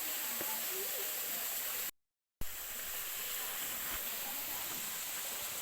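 Steady outdoor background hiss, strongest high up, with faint distant voice traces. It cuts out completely for about half a second about two seconds in.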